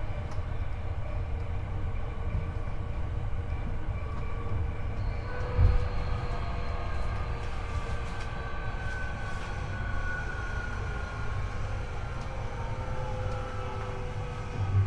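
Inside a Hankyu 8300 series EMU car over the bogie: steady rumble of wheels on rail, with the whine of the Toyo IGBT-VVVF inverter and induction traction motors. The whine falls in pitch through the second half as the train slows. One thump about five and a half seconds in.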